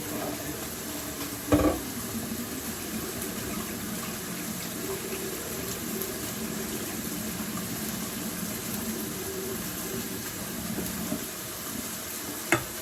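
Cold tap water running steadily over cooked rice noodles to rinse them and stop them cooking, with a sharp knock about a second and a half in and another near the end.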